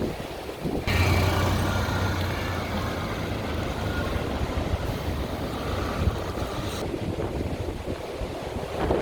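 Strong wind blowing across the microphone: a steady rushing roar with low rumble that picks up about a second in and eases off near the end.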